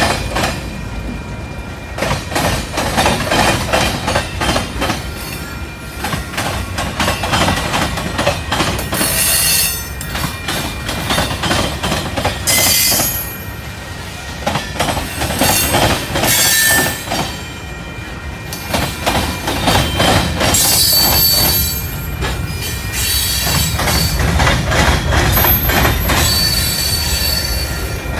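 Freight cars (boxcars, tank cars and covered hoppers) rolling past, with a steady rumble and rapid clacking of steel wheels on the rails. Metallic wheel squeals come and go from about a third of the way in, with thin high whistling tones near the end.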